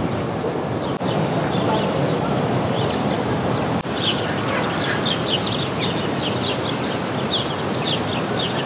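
Small birds chirping in short, quickly repeated calls over a steady rushing noise; the chirping grows busy about four seconds in.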